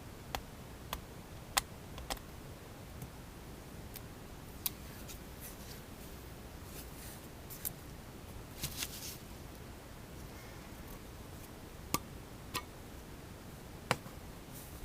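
Packaging being handled and opened by hand: scattered sharp clicks and taps, about a dozen, with a few short rustling scrapes of cardboard or plastic in the middle.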